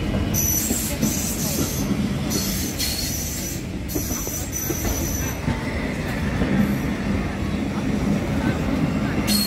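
Vintage passenger coaches rolling slowly past with a steady rumble of wheels on rail. High-pitched wheel squeal comes and goes in several bursts over the first five seconds and again near the end.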